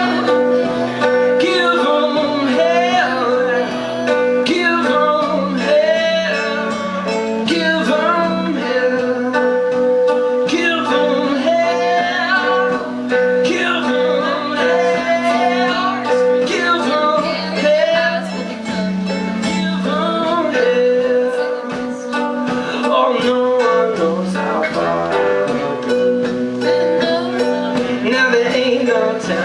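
Live blues-rock band playing: guitar with drums and a singing voice, loud and continuous.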